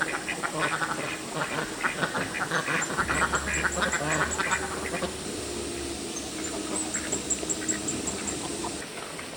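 Several ducks quacking in quick succession, thinning out after about five seconds. Short runs of high, rapid chirps repeat in the background.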